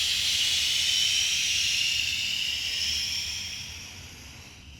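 A long, steady exhale hissed out through the teeth or pursed lips, fading as the breath runs out near the end.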